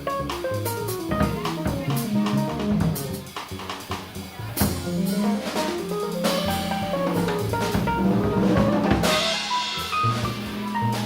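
Live instrumental jazz on piano and drum kit: the piano plays fast runs that sweep down and back up over busy drumming, and a loud cymbal wash comes in about nine seconds in.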